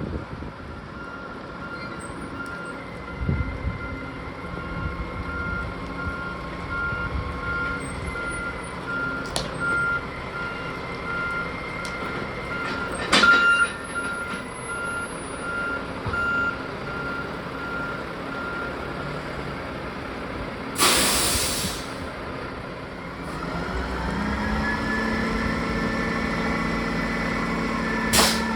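Roll-off dumpster truck backing up, its reverse alarm beeping steadily for about the first half, with a short loud air-brake hiss about three-quarters through, then a steady engine drone near the end.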